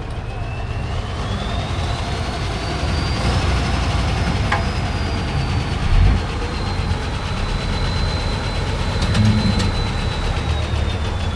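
Heavy truck-trial truck engine running under load, a dense low rumble with a thin high whine that climbs over the first three seconds and then slowly sinks. A louder thump about six seconds in.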